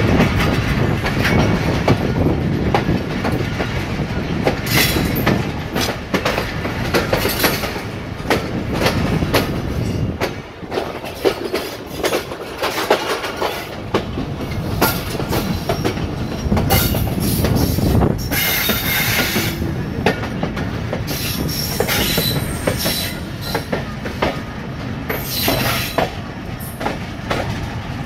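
Passenger train running on jointed track, wheels clattering and knocking over rail joints with a continuous rattle of the coaches as they sway and shake. Wheel flanges squeal sharply at times, loudest about two-thirds of the way through and again near the end.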